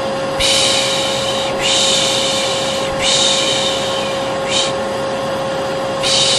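A vacuum cleaner runs with a steady drone while a person shushes over it in long 'shh' strokes: three in a row, a short one, then another starting near the end. This is the Turkish 'piş piş' shush used to soothe a baby to sleep.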